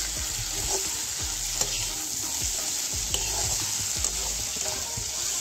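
Goat meat with onions and spices sizzling in oil in a wok, stirred with a metal spatula that scrapes and knocks against the pan now and then over a steady frying hiss.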